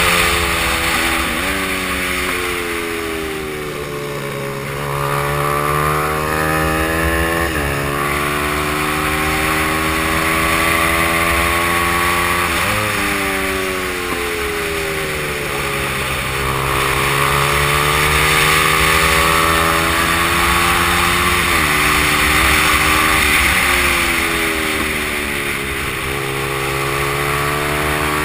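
Stock Honda XR100's small single-cylinder four-stroke engine racing hard, its pitch rising and falling with several abrupt jumps at gear changes, over a steady rushing hiss.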